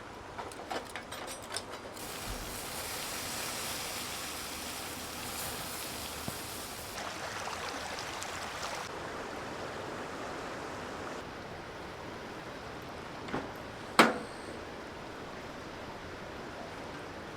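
Steady outdoor background noise with a few light knocks early on and one sharp click about fourteen seconds in.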